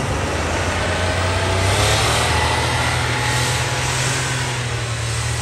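Vehicle engine pulling away and picking up speed, a steady low rumble with a rising pitch over the first couple of seconds.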